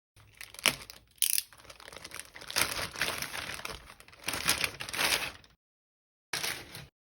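Plastic packaging crinkling and tearing as merchandise is unwrapped, in a run of rustles and sharp crackles that stops abruptly, then one short burst more near the end.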